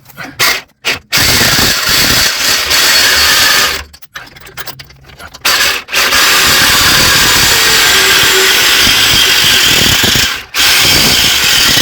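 Power tool cutting through a metal bracket along a marked line, running in three long stretches with short pauses between them.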